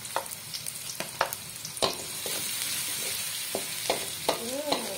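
Sliced shallots and garlic sizzling in a little oil in a metal wok, the sizzle growing a little stronger about two seconds in. A wooden spatula knocks and scrapes against the wok as they are stirred, giving a string of sharp clacks.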